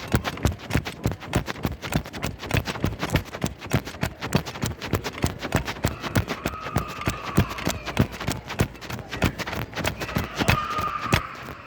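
Quick footsteps with the jostling knocks of a body-worn recorder as the wearer walks briskly, several knocks a second without a break.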